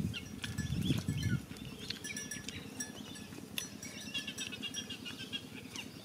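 Birds chirping and twittering, with scattered light clicks and a short low voice-like call about a second in.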